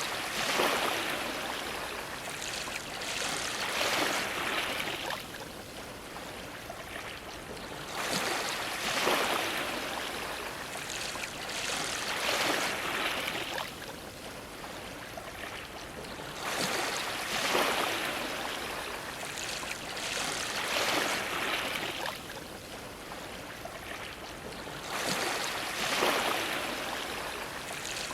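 Ocean waves splashing against a dock, the wash swelling and easing in repeated surges every few seconds.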